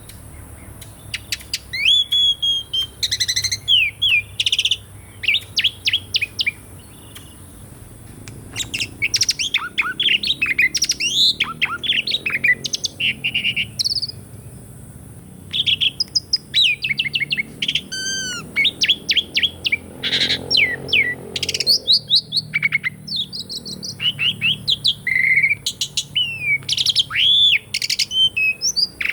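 Asian pied starling singing a varied string of sharp whistles and chirps, some sliding up or down in pitch, in bursts with short pauses. A rasping burst comes about two-thirds of the way through, and a faint steady high hiss runs underneath.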